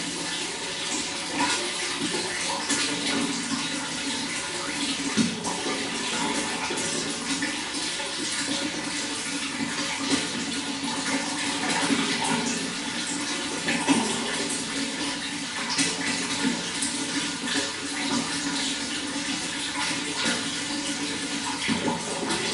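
Running water flowing steadily, with small splashes throughout.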